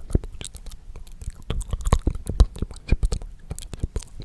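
Close-up mouth sounds: irregular wet clicks and lip smacks, several a second.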